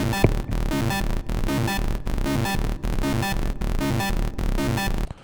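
Hard techno loop: a Serum 2 sawtooth synth lead playing a sequenced, repeating pattern over distorted schranz kicks and a sustained low end. It stops abruptly near the end.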